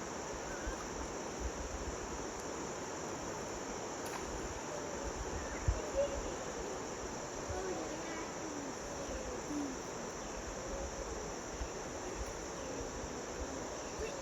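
Steady high-pitched chorus of summer insects, with faint distant voices and a couple of low thumps about six seconds in.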